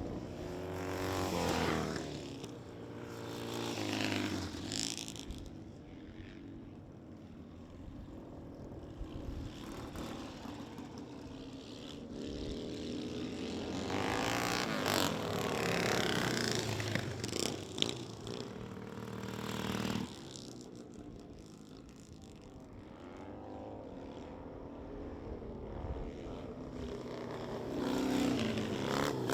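Vintage motorcycle engines revving as the bikes pass one after another, each swelling up and fading away with the pitch rising and falling, loudest in the middle of the stretch.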